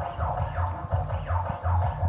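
A dense chorus of animal calls: many short calls, each falling in pitch, several a second and overlapping, over a low pulsing hum.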